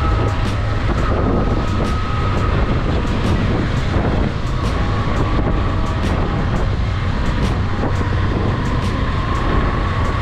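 Motorcycle engine running steadily under way, with wind noise on the rider's microphone.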